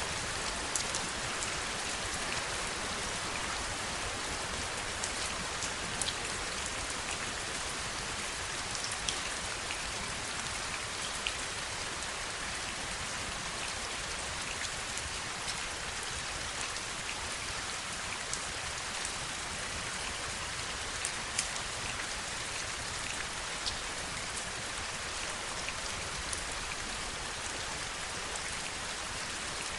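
Steady heavy rain: a continuous hiss of falling rain, with single drops ticking sharply every second or two.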